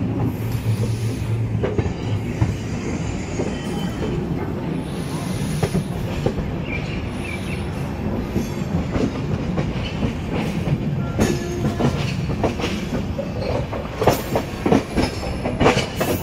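Indian Railways express train running through a station yard, heard from an open coach door: a steady rumble of wheels on rail. Near the end come sharp clacks and knocks as the wheels cross points and rail joints, with some wheel squeal.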